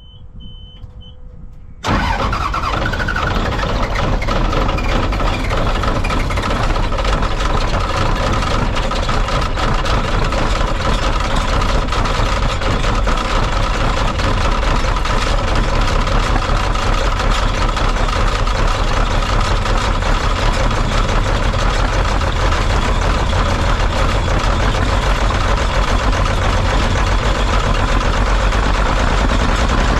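Gleaner L2 combine running steadily, a loud engine-and-machinery noise that comes in suddenly about two seconds in after a faint, nearly quiet start.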